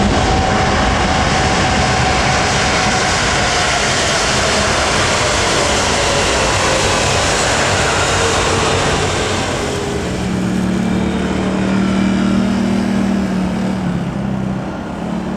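Passenger plane passing low overhead: loud engine noise with a whine that falls steadily in pitch, dying away after about ten seconds. A steadier low hum is left near the end.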